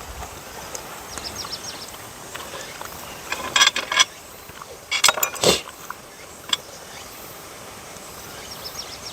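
A dog eating scraps of grilled sea bass: a few short bursts of chewing and crunching around the middle, over a background of insects chirping.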